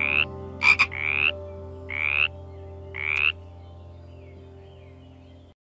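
A frog calling: a run of short croaks about once a second, one of them a sharp double click, the last ending a little over three seconds in. A steady low drone runs under the calls and cuts off suddenly near the end.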